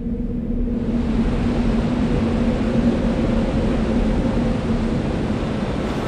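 Steady rumbling noise with a low hum held under it, swelling up over the first second and then running evenly, like a whooshing sound-design drone.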